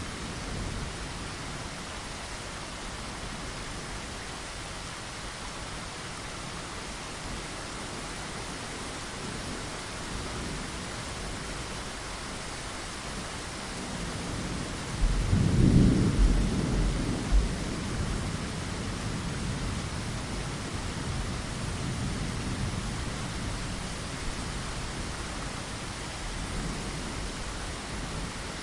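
Steady rainfall against a window, with a low rumble of thunder swelling up about halfway through and dying away over a few seconds.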